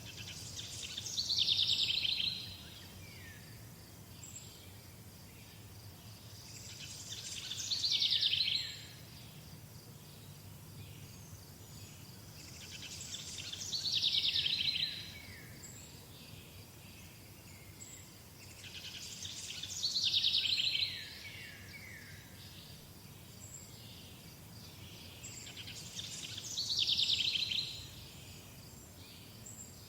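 A songbird singing the same short song five times, about every six seconds. Each song lasts about two seconds, grows louder through a quick run of high notes and ends in a few falling notes, over a faint steady background of insects.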